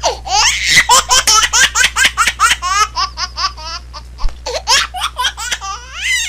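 Baby laughing hard in a long run of quick high-pitched bursts, about four or five a second, with a short break about four seconds in.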